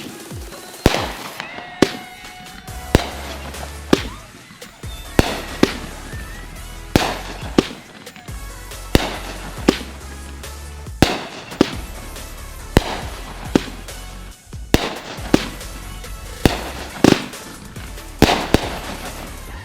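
Consumer 1.4G fireworks (mortar shells and cakes) going off in a steady string of sharp bangs, roughly one a second, each with a short echoing tail, over electronic dance music with a steady bass.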